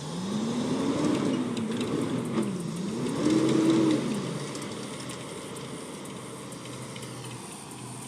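Truck engine revving up and down several times, its pitch climbing, dipping and climbing again, then settling back after about four seconds.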